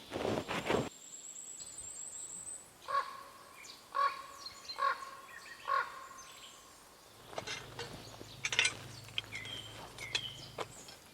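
Forest birds calling: a high thin trill, then four evenly spaced calls about a second apart, then short scattered chirps. A last footstep rustles at the very start, and a faint low hum sits under the second half.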